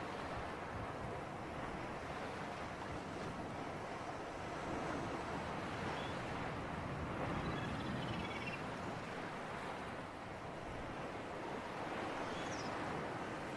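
Seashore ambience: a steady wash of surf and sea breeze that swells and eases gently, with a few faint, brief high chirps.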